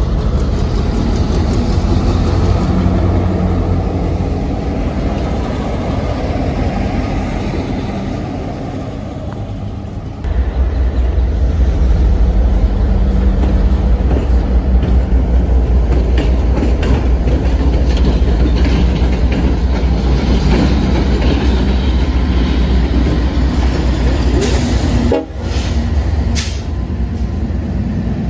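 A train running by: a loud, heavy low rumble with rapid clicking and clatter from the wheels on the rails. The sound changes abruptly about ten seconds in and briefly drops out near the end.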